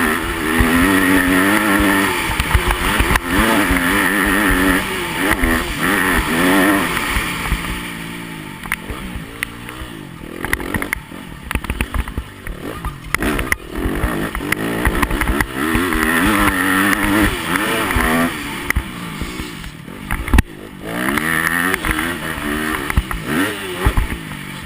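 Yamaha motocross bike's engine, heard close up, revving up and falling back again and again as it is ridden round the track. It runs quieter for a few seconds in the middle, with a few sharp knocks along the way.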